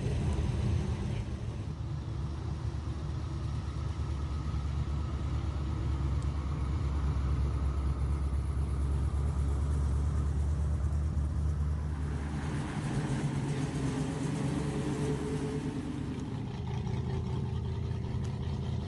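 A car engine running with a deep, steady rumble, its note shifting partway through.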